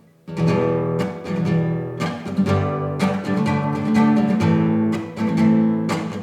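Acoustic guitar playing a strummed chord progression, a new chord struck about every second and left ringing.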